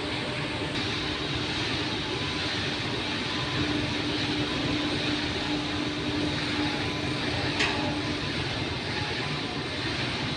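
Steady mechanical noise of heavy engines and machinery running, with a low steady hum through the middle and a single sharp click about seven and a half seconds in.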